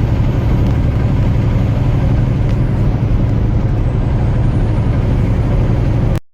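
Truck driving at highway speed: a steady low engine drone with road and tyre noise, which cuts off suddenly near the end.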